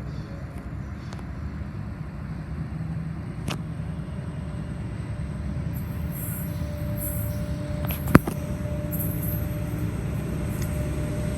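NSW 81 class diesel-electric locomotives approaching with freight train 9833: a steady low engine rumble slowly growing louder, with a steady tone joining in a few seconds in. A single sharp click about eight seconds in.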